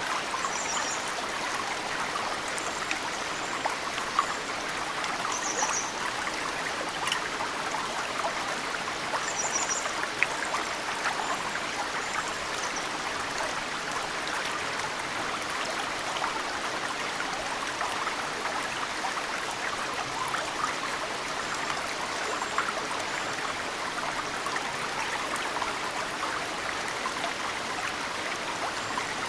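Mountain stream running steadily, with occasional sharp drips of snowmelt falling into it. A small bird gives short high chirps in little series over the water now and then.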